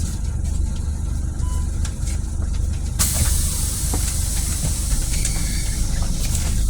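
Scania city bus heard from inside, its engine running with a steady low drone. About three seconds in, a loud pneumatic air hiss from the bus starts suddenly and carries on.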